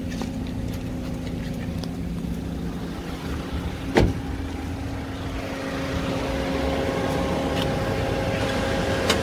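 2013 Toyota Etios Liva's 16-valve petrol engine idling steadily with the air conditioning on, getting louder from about halfway through. A single sharp knock about four seconds in.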